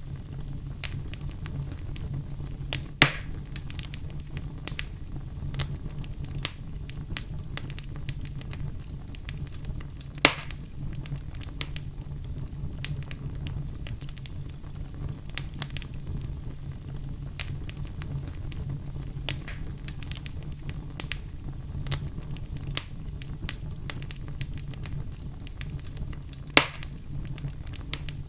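Fire crackling in a fireplace: a steady low rumble of flames under constant small crackles, with three sharp, louder pops spread through.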